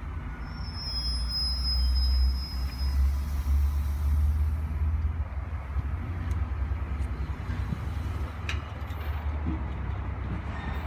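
A commuter train of bilevel coaches rolls past close by with a steady low rumble. A thin high-pitched squeal comes briefly about half a second in, and later a few sharp clicks, like wheels over rail joints.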